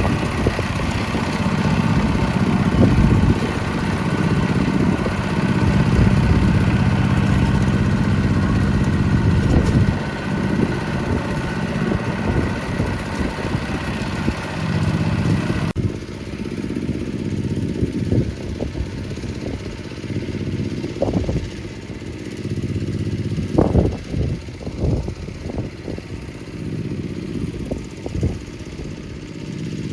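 Small engine of a walking farm tiller running steadily. About halfway through the sound changes abruptly: the higher part of the engine sound drops away, leaving a lower running sound broken by irregular knocks and thumps.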